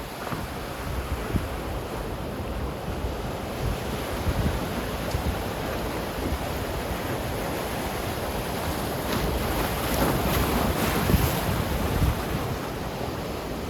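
Ocean surf: waves breaking and washing in, a continuous roar that swells about ten seconds in, with wind buffeting the microphone.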